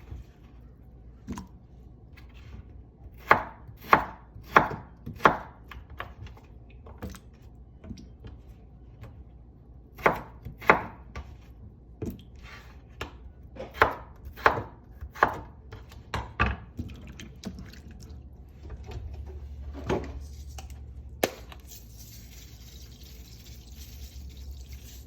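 Knife chopping on a cutting board: sharp knocks in irregular runs with pauses between them. A steady hiss with a low hum starts about three-quarters of the way through.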